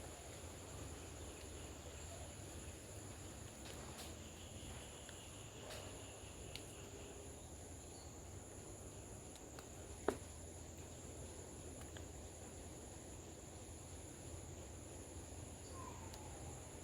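Insects calling steadily in the background: a continuous high-pitched shrill with a higher note that pulses about once a second. A single sharp click sounds about ten seconds in.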